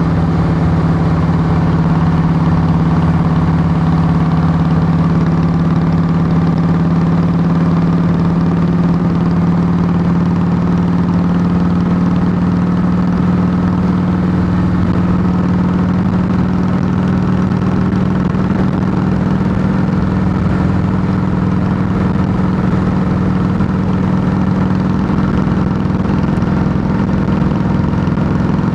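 Harley-Davidson Softail Heritage Classic's Twin Cam V-twin running steadily through Samson true-dual fishtail exhaust pipes, with a deep, even exhaust note. Its pitch creeps up slightly over the course of the sound.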